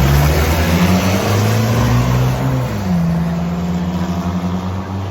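A 4x4 truck's engine running hard on a mud drag run: its note climbs for about two and a half seconds, then drops back sharply and holds steady at a lower pitch.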